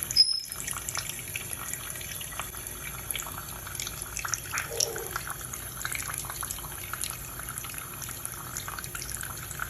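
Kitchen tap running into a sink, with small splashes and drips in the water as a Goffin cockatoo bathes in it.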